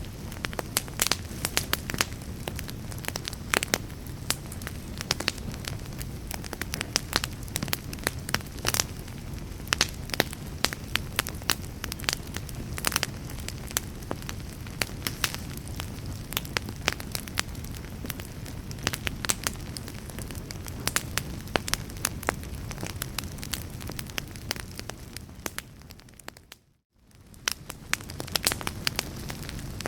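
Wood fire crackling, with many sharp pops and snaps over a steady low rush. About 26 seconds in the sound fades briefly to silence and fades back in.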